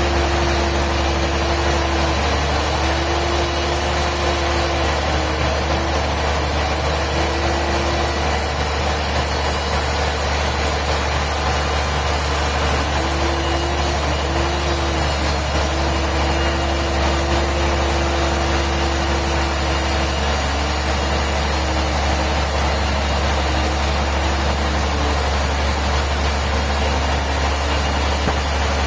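Sawmill machinery running steadily: a loud constant low hum with a whining tone that dips in pitch and recovers several times.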